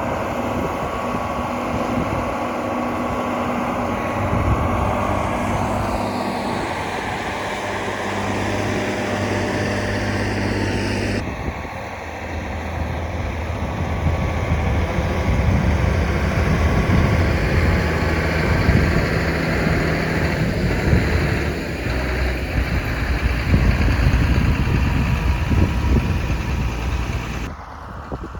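Tractor engine running steadily. The sound changes abruptly about eleven seconds in and again near the end.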